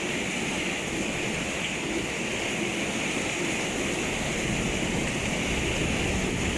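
Torrential rain pouring down steadily during a thunderstorm, an even rushing noise with no thunder clap in it.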